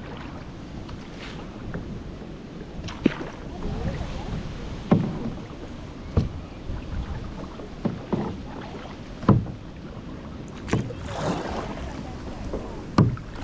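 Kayak paddle strokes through water, a sharp splash or knock about every one and a half to two seconds over a steady wash of moving water.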